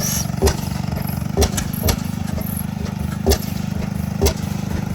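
An antique engine being started, firing with sharp, irregular bangs about once a second. Under the bangs is the steady low drone of other old engines already running.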